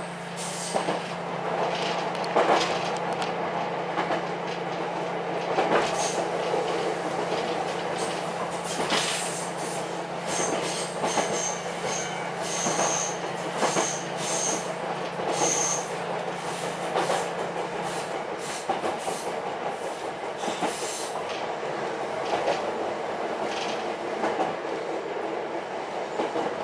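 Ichibata Electric Railway 7000 series railcar running on the line, heard from inside the car: a steady rumble of wheels on rail with irregular knocks over rail joints and a low hum that stops about two-thirds of the way through. A series of short, high wheel squeals comes through the middle.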